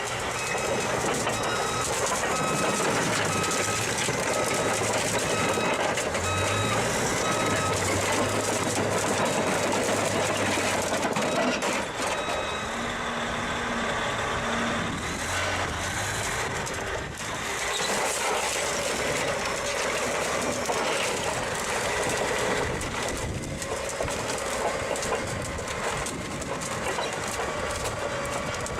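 Heavy earthmoving machinery running, with a steady, loud engine and track noise. A reversing alarm beeps repeatedly over the first several seconds.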